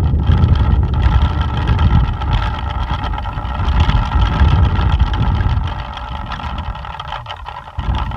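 Plastic pinwheels spinning fast in strong wind, a steady fluttering whir, with gusts buffeting the microphone. The gusts ease off near the end.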